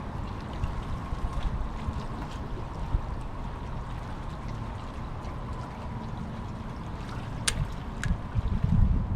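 Water lapping against a fishing kayak's hull with a steady low rumble of wind on the microphone. Near the end come two sharp clicks about half a second apart, then a few low bumps.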